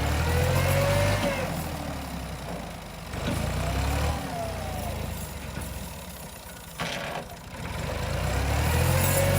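Ghazi 65 tractor's diesel engine revving up and falling back three times, straining to pull a stuck trolley free. A short sharp knock sounds between the second and third surges.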